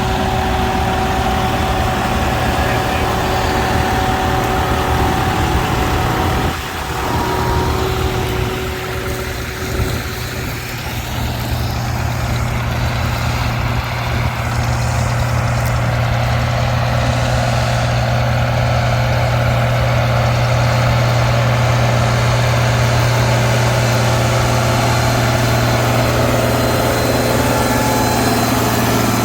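Tractor engine running steadily, with a brief dip in level about six seconds in.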